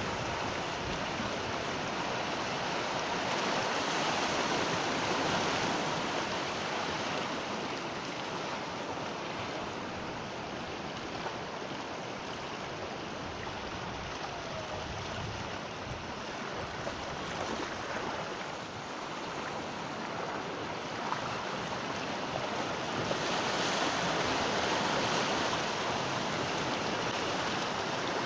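Sea waves breaking and washing on the shore, a continuous surf noise that swells louder a few seconds in and again near the end.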